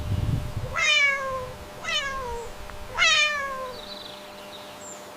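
A domestic cat meowing three times, about a second apart, each meow falling in pitch.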